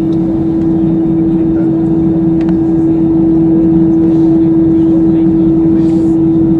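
Cabin noise of an Airbus A320-214 with its CFM56 engines running: a loud, steady roar with a constant hum-like tone, growing slightly louder about halfway through.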